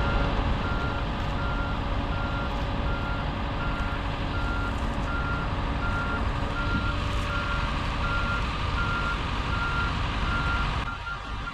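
A heavy vehicle's reversing alarm beeping at an even pace over its running engine.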